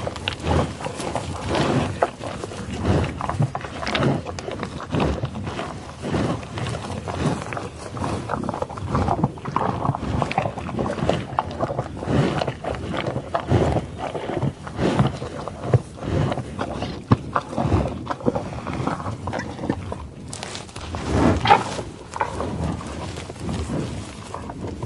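Animal calls: a dense run of short, irregular sounds, with a louder one about 21 seconds in.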